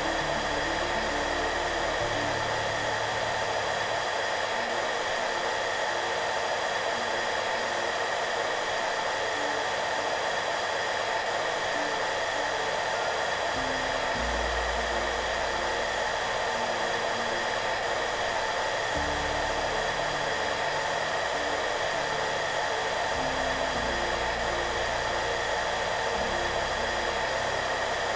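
Hair dryer running steadily with a strong whooshing hiss and a steady whine, over soft background music whose low notes change every few seconds.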